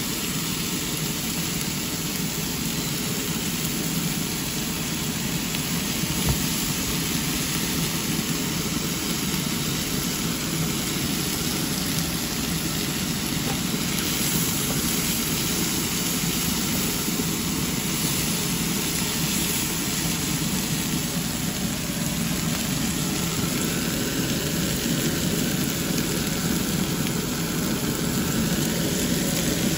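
Mixed vegetables sizzling steadily in a hot frying pan as they stir-fry, with a single knock about six seconds in.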